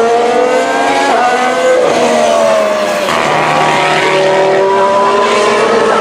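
2017 Formula 1 cars' 1.6-litre V6 turbo-hybrid engines at speed, several running at once. Their pitch climbs, drops sharply about a second in, falls around the middle as cars go past, then another engine note comes in and rises.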